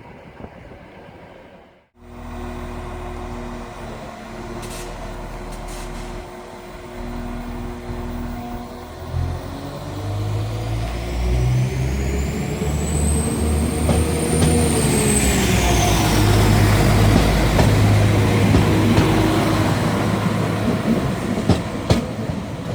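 Class 195 diesel multiple unit's underfloor diesel engines running, then revving up loudly as the train pulls away from the platform. A high whine rises and then falls in pitch as it accelerates.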